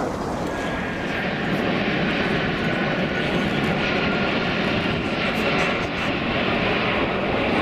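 Jet engines of a cargo aircraft running, a steady rushing roar with a faint high whine through it, growing slightly louder after the first second.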